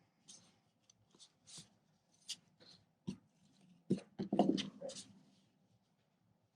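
Soft scattered rustles and light taps of hands knotting baker's twine around a cardboard-wrapped tassel, with a louder, brief rustling sound about four seconds in.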